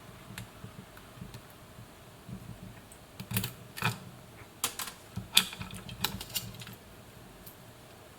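Irregular sharp clicks and taps of small parts being handled, bunched in the middle seconds, over a low steady hum.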